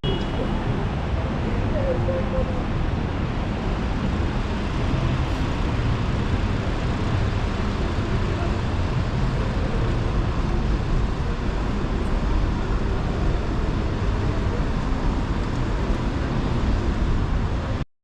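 Steady city street traffic noise with a murmur of voices, cutting off suddenly near the end.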